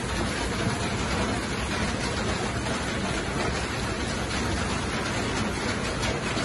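Scrambled eggs and sliced smoked sausage sizzling steadily in a hot frying pan as they are stirred with a spatula.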